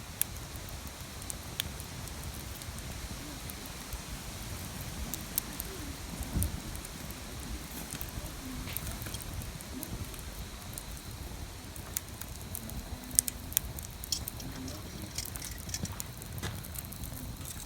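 Wood fire crackling in a BUNDOK campfire grill, with irregular sharp pops and snaps that come more often in the later part, over a steady low rumble.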